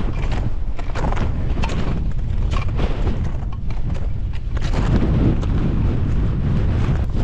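Strong mountain wind buffeting the microphone with a loud, continuous low rumble. Irregular crunching steps in snow can be heard through it.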